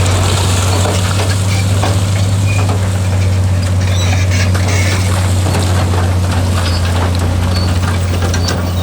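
Heavy diesel engine of earthmoving machinery running steadily with a constant low drone, with scattered clicks and rattles over it.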